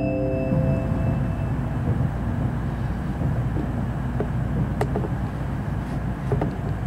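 Cabin noise of an N700-series Shinkansen running at speed: a steady low rumble. The last notes of the onboard announcement chime fade out in the first second or so, and a couple of sharp clicks come near the end.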